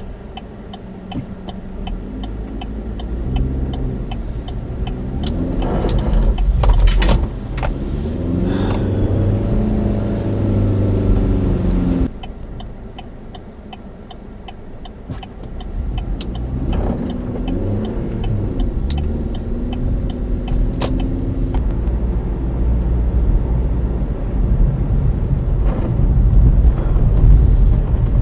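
Chevy Spark's four-cylinder engine, heard from inside the car, revving up and down in two spells, its pitch rising and falling over a steady low rumble. A faint regular ticking runs alongside.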